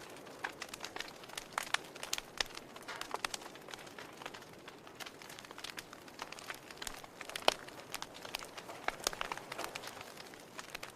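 Wood campfire crackling, with irregular sharp pops and snaps over a soft steady hiss of burning; one louder pop stands out in the middle.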